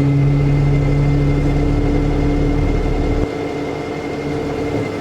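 Cummins B6.7 diesel running steadily while driving the PTO hydraulic pump as the dump body is raised, a steady hum made of several tones. The deepest part of the sound drops away a little past three seconds in.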